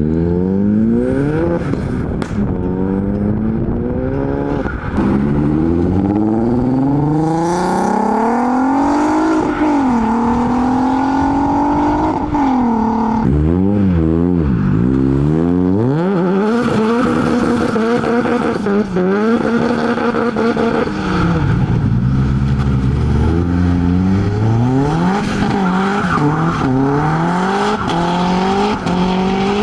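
Modified car engines revving and accelerating hard, pitch climbing and dropping sharply again and again through gear changes and throttle blips.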